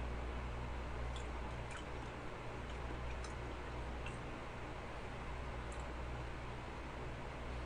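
Slow chewing of soft cheesecake: a few faint, scattered mouth clicks over a steady low electrical hum.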